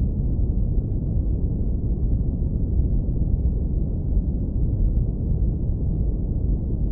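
Synthetic brown noise filtered down to a deep, warm rumble, steady and unchanging, with nothing bright or hissy on top.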